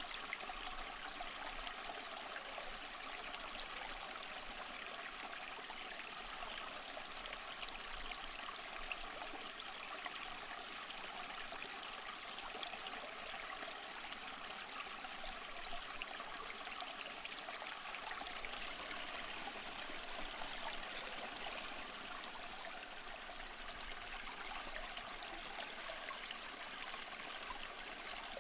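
A small stream running over stones, a steady babbling and trickle.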